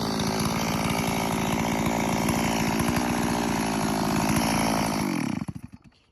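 Chainsaw running at high revs, then shut off about five seconds in, its pitch falling as the engine winds down to a stop.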